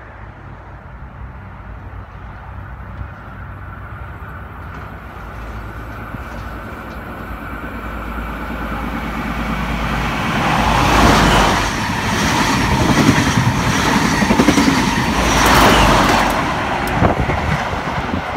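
XPT diesel express train running through the station at speed without stopping. Its engine and wheel noise builds steadily as it approaches. It is loudest about ten seconds in, as the leading power car passes, and peaks again near fifteen seconds with the trailing power car, then eases as the train goes away.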